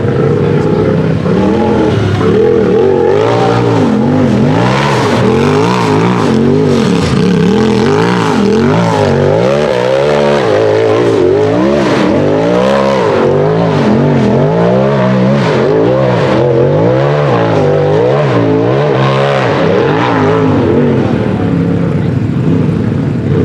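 UTV engine at racing load, revved up and down again and again in quick throttle swings, about once a second, as it climbs through rough terrain; the revs settle near the end.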